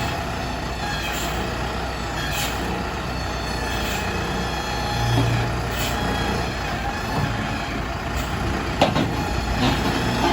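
Wheel loader's diesel engine running steadily, with a few sharp metallic knocks near the end.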